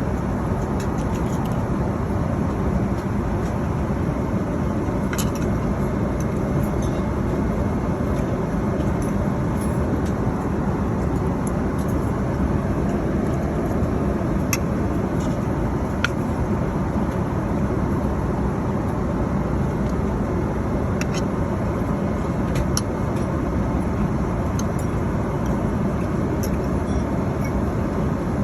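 Steady airliner cabin noise in flight, the even low rush of engines and airflow, with a few faint scattered clicks.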